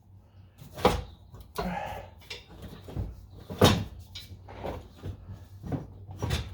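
A series of separate knocks and clunks from hand work on a car's exhaust, metal parts and tools being handled and knocked, the loudest about three and a half seconds in.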